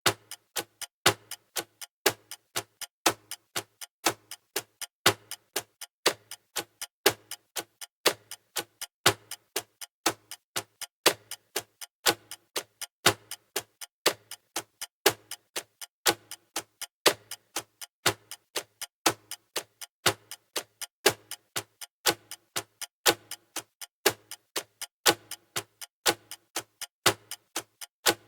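Countdown timer's clock-style ticking sound effect: rapid, even ticks, about three a second, with a louder tick every two seconds.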